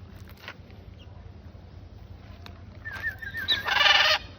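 A bird gives one loud, harsh squawk near the end, just after a short wavering whistle.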